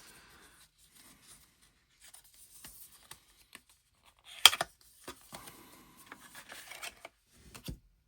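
Photo cards and paper packaging being handled: light rustling and scraping, with one sharp snap about four and a half seconds in and a softer knock near the end.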